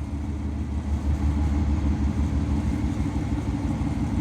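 A large engine running steadily with a low, even rumble.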